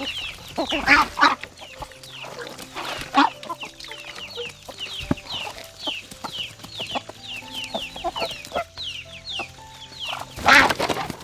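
Chickens clucking and calling, with a rapid run of short, high falling peeps and a few louder calls, the loudest near the end.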